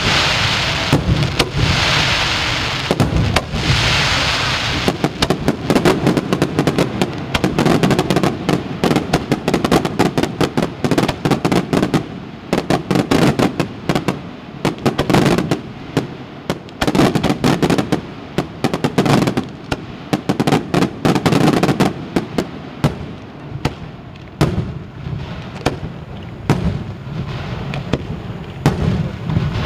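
Aerial fireworks display: shells bursting one after another, many bangs and crackles in quick succession. A steady hiss runs under the bangs for the first few seconds.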